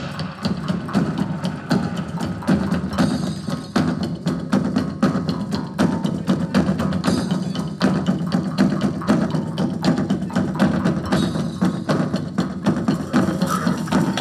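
Live band music driven by a fast, dense percussion rhythm of sharp strikes.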